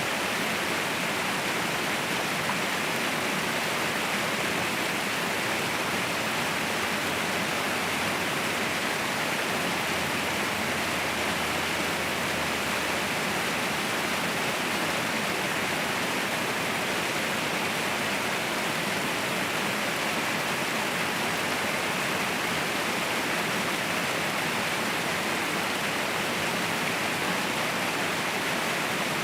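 Mountain waterfall rushing steadily: a constant, even roar of falling water with no changes.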